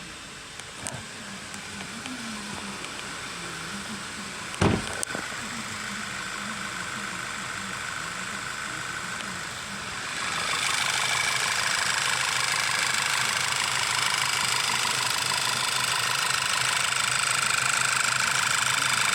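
VW Passat engine running steadily at idle, with one sharp knock about four and a half seconds in. About ten seconds in the engine sound becomes louder and brighter and holds there.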